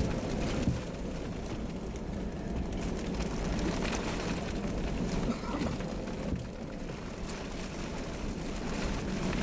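Steady rumble and rushing noise inside a car driving through a storm, from the vehicle's running and from wind and rain on the car, with a couple of brief knocks.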